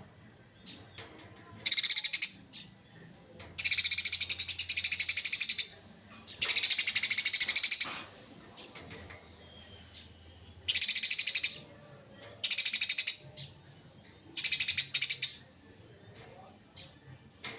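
Eurasian tree sparrow giving harsh, rapid chattering 'cret' calls of the fighting kind, in six loud bursts of half a second to two seconds with short pauses between.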